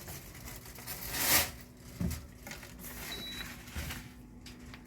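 Split air conditioner indoor unit running with a faint steady low hum, which is the motor sound still being checked after the fan motor was replaced. About a second in there is a loud rustling burst, followed by a couple of knocks and, a little past the middle, a short high beep.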